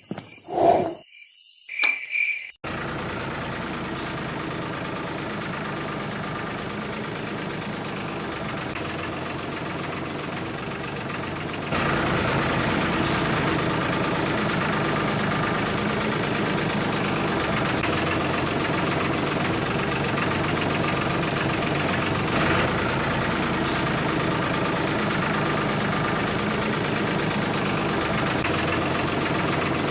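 A couple of short chime-like sounds, then a steady mechanical running drone, like a small motor or engine idling, that gets louder about twelve seconds in and holds steady.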